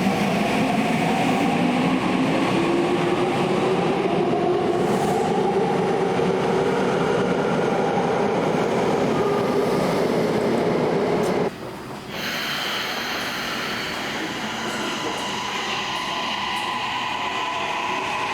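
Electric train accelerating, its traction motors whining in several tones that rise steadily in pitch over running noise. The sound cuts off abruptly about eleven seconds in, and another train's running noise follows, its whine starting to rise again near the end.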